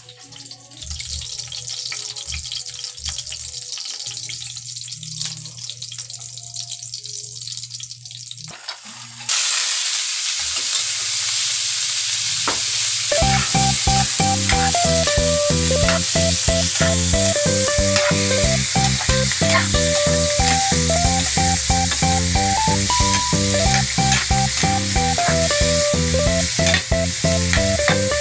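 Pork pieces sizzling as they fry in a pan, stirred with a metal spatula. The sizzle comes in abruptly about nine seconds in, after a quieter stretch with a low hum. Background music with a steady beat joins a few seconds later and runs on over the sizzling.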